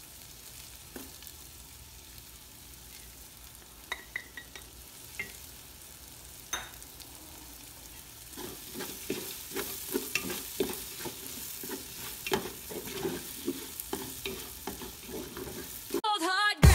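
Sliced onions and freshly added garlic sizzling in oil in an aluminium pot, with a few light clicks of a wooden spatula. About eight seconds in, steady stirring starts, the spatula scraping and knocking against the pot. Just before the end, a short warbling electronic sound cuts in.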